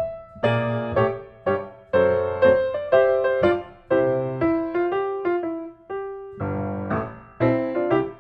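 Background piano music: a gentle melody of struck notes and chords, each fading away before the next.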